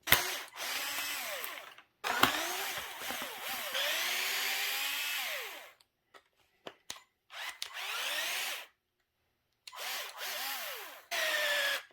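A power drill-driver backing screws out, in five separate runs. In each run the motor's pitch rises as it speeds up and falls as it slows.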